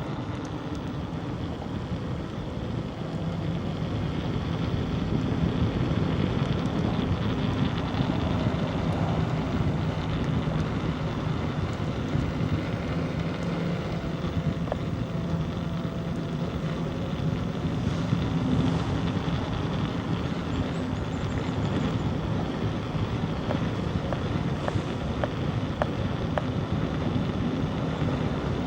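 A motor vehicle's engine running steadily, mixed with wind noise on the microphone. It grows louder a few seconds in and then holds.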